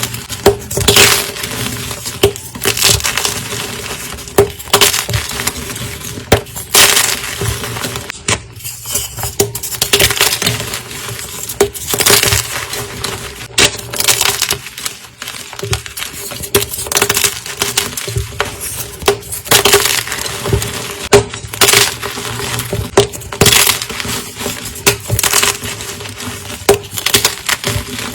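Blocks of gym chalk being crushed: crisp, crunchy crackling, with a louder crunch every second or two.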